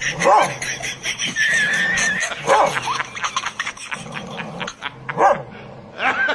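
A dog barking and yelping: three short calls a couple of seconds apart, over steady clicking noise.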